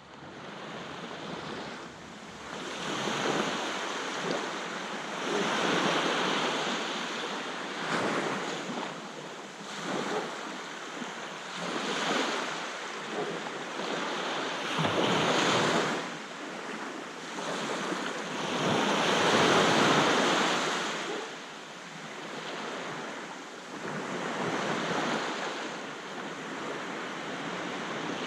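Sea waves breaking on a beach, the surf swelling and easing every few seconds, with the loudest break about twenty seconds in.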